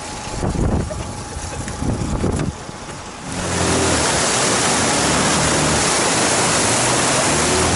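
Outboard motor on a motorized river raft running. About three seconds in it jumps to a loud, steady level, with a rushing noise of water and wind over it.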